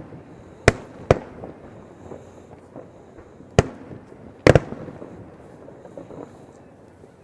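Aerial fireworks shells bursting: sharp bangs at irregular intervals, about five loud reports including a quick double, with fainter pops and crackles between.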